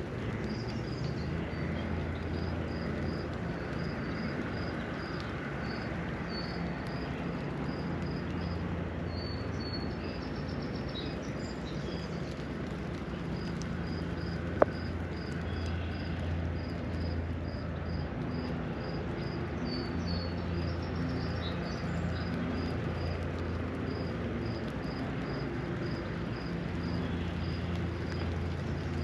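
Rainy lakeshore ambience. Light rain falls over a steady low rumble of distant traffic, while a high chirp repeats evenly about three times every two seconds, with a few other bird calls now and then. A single sharp tap comes about halfway through.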